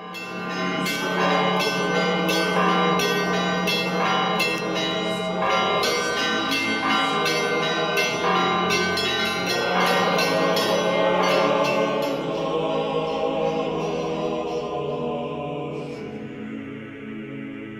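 Church bells ringing: many bells struck in quick succession, each note ringing on, dying away near the end.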